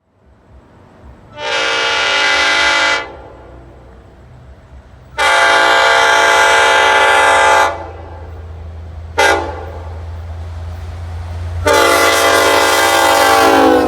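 LIRR DE30AC diesel locomotive 414 sounding its air horn in the grade-crossing pattern: two long blasts, a short one and a final long one, the last dipping in pitch as it ends. The locomotive's diesel engine rumbles underneath, growing louder toward the last blast as the train nears.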